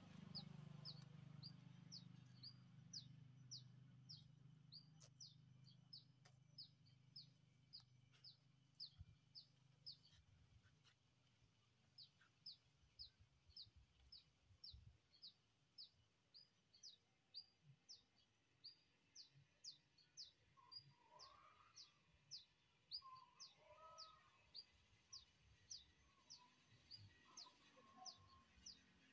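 A bird calling faintly in a long, even run of short, high notes, each sliding down in pitch, about two a second, with a brief pause about ten seconds in. Other birds chirp faintly now and then in the last third.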